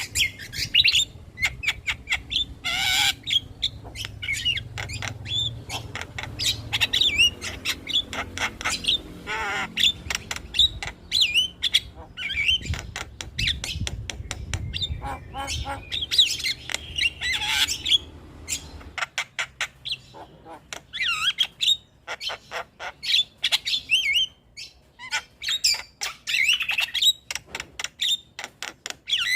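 Javan myna (jalak kebo) singing and chattering: a fast, varied run of clicks, whistled notes that rise and fall, and harsh squawks.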